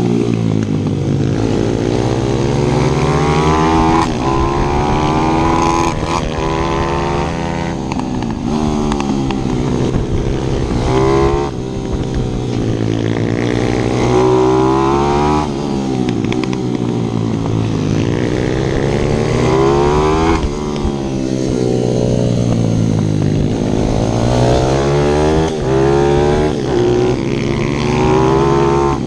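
Single-cylinder four-stroke 155 cc pit bike engine under hard riding, its pitch rising through the revs and dropping back again and again as it accelerates, shifts and slows for corners.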